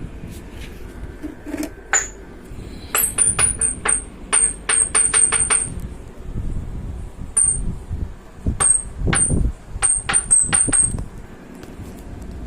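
A quick run of light metallic clinks, each ringing briefly at a high pitch: small metal pieces knocking together. There are about ten in quick succession from about three seconds in, then another scattered group near the end, over a steady low hum.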